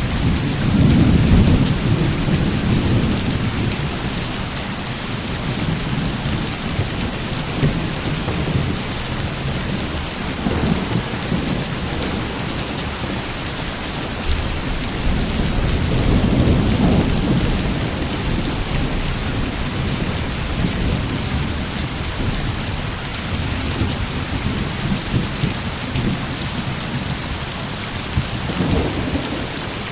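Heavy rain falling steadily, with low rolls of thunder rumbling in just after the start, again around the middle, and once more near the end.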